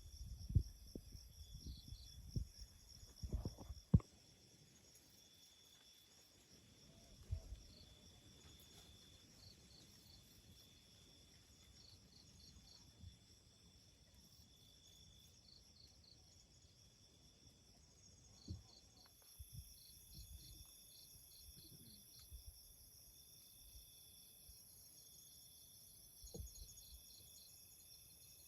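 Forest insects trilling and chirping steadily in several high-pitched layers, a cricket-like chorus. Several low thumps fall in the first four seconds, with a few single ones later.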